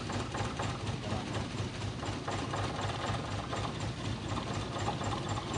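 Toyota Kijang engine running at idle with a fast, steady mechanical ticking and clatter over its low running note.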